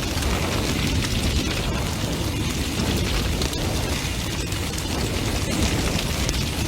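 Large, intensely burning bonfire: a steady low rumble of flames with dense, continuous crackling and popping of burning wood.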